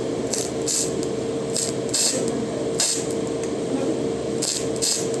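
Gas torch hissing steadily while brazing copper, with a steady hum behind it and short bursts of sharper hiss every half second to a second.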